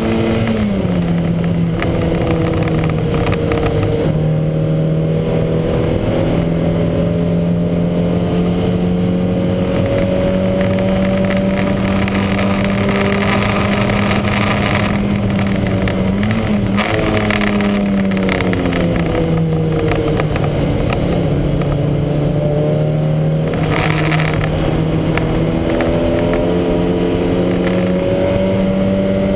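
Lancia Montecarlo race car's engine running hard at racing speed. The pitch drops sharply about a second in and again at about the middle, as at a gear change, and climbs slowly after each drop as the car pulls.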